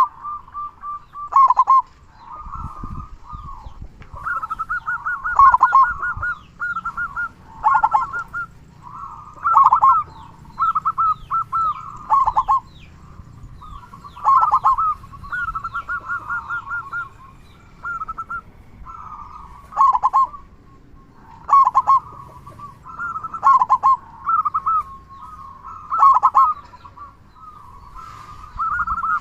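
Zebra dove (perkutut) cooing: phrases of rapid staccato notes, repeated every second or two, with the deep, full 'kung' voice prized in a good singer.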